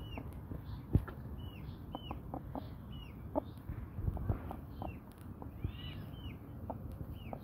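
Brahma chickens calling: short, high, arching chirps repeated about twice a second, with scattered soft knocks and taps underneath.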